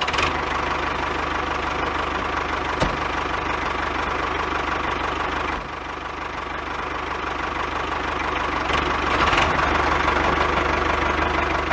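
Small engine of a homemade mini tractor running with a steady, even chugging. It drops a little about halfway through, then gradually builds up again.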